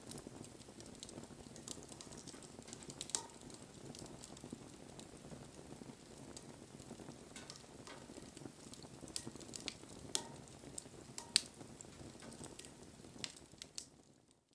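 Wood campfire burning with a steady low hiss and scattered sharp crackles and pops, fading out near the end.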